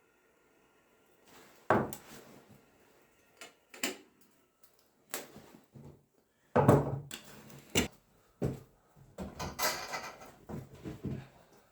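A series of sharp knocks and clattering, as of objects being handled and set down, loudest about two thirds of the way in, with a busier run of clatter and rustling near the end.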